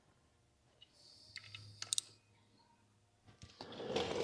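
A few faint, light clicks, two sharper ones close together about two seconds in, then a soft rustling hiss near the end.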